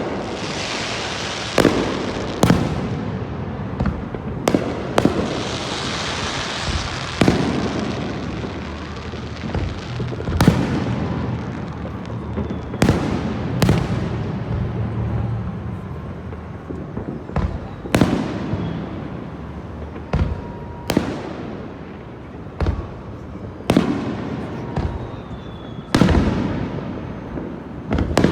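Aerial fireworks bursting overhead: a steady run of sharp bangs at irregular intervals, each with a rolling tail, over a continuous crackle and hiss, with thick spells of crackling a second or two in and again around six seconds in.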